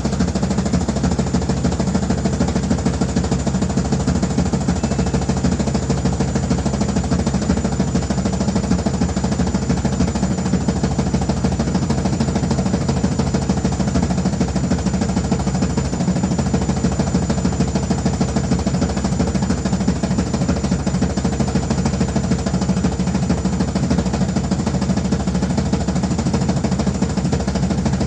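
Washing machine running loudly with a steady, fast rattling vibration that does not change.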